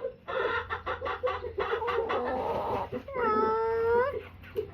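Hens clucking in quick repeated notes, then one long drawn-out call about three seconds in that holds for about a second.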